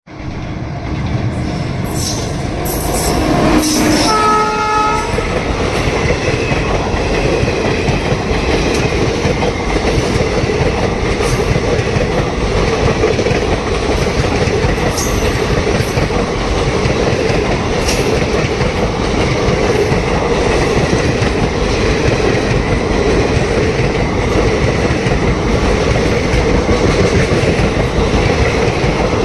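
Indian Railways passenger train running past close by: a steady rumble of coach wheels on the rails with scattered clicks over the rail joints, and a short locomotive horn blast about four seconds in.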